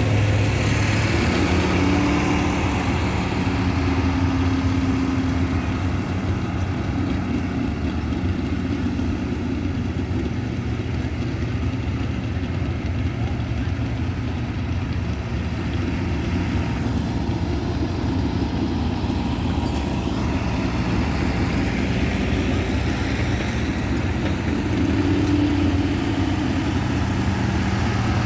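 Pulling truck's engine idling steadily, with a brief rise in revs a couple of seconds in and again near the end.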